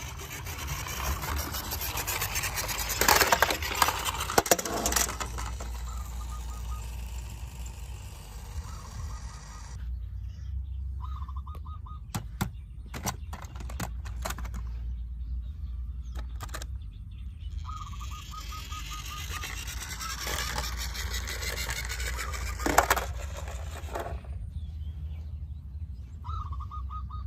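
Diecast toy vehicles being handled: stretches of rustling and clattering with sharp clicks, and three short buzzy beeps of steady pitch from a toy's sound effect, over a steady low hum.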